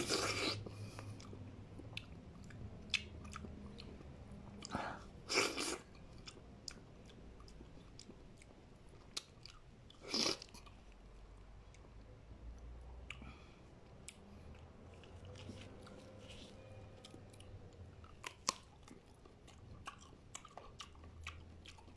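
Close-up chewing of peeled prickly pear fruit: soft wet mouth sounds with scattered small crunchy clicks from its many hard seeds, and a few louder moments about half a second, five and ten seconds in.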